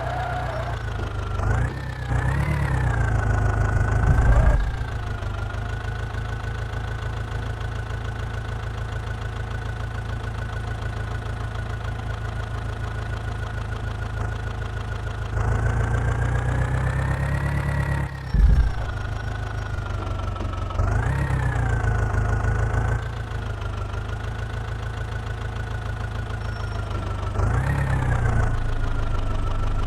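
JCB 3DX backhoe loader's diesel engine idling steadily and revving up briefly four times, the pitch rising and falling back each time as the hydraulics work.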